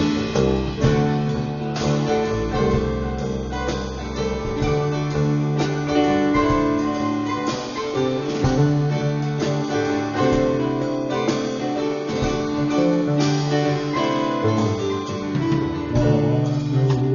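Live acoustic band playing an instrumental introduction, plucked guitar with piano or keyboard, before the vocals come in.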